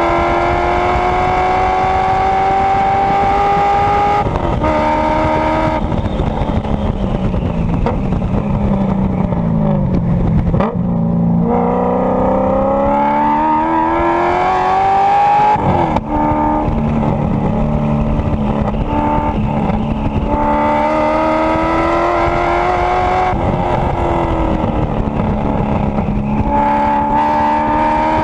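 Race car engine at full throttle heard from onboard, rising in pitch through the gears with quick upshifts about four and six seconds in. It falls away while braking and downshifting for a corner around the middle, then pulls hard again with further upshifts.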